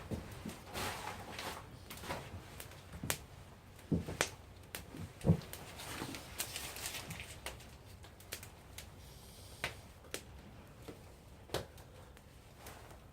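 Campfire crackling, with irregular sharp pops and a few heavier knocks about four to five seconds in, thinning out toward the end.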